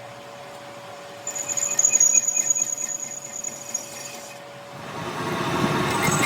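Metalworking machine running: a steady hum, with a loud high-pitched whine and rapid ticking from about a second in to about four seconds, then a louder, rougher machine noise building near the end.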